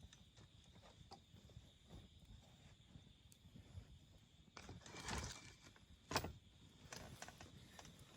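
Wood campfire crackling quietly with scattered small pops, a louder spell of crackling about five seconds in and one sharp pop just after six seconds.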